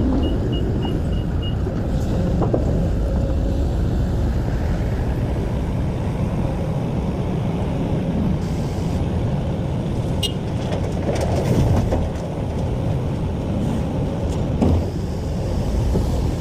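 Diesel engines of an excavator and dump trucks running under load in a steady low rumble. A reversing alarm beeps rapidly for the first second and a half, and there are a few short knocks and scrapes, the sharpest about ten seconds in.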